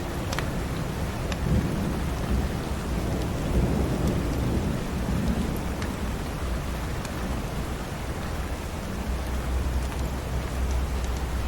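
Steady rain with a low rolling rumble of thunder that swells a second or two in and fades by about six seconds, and a few sharp crackles from a fireplace.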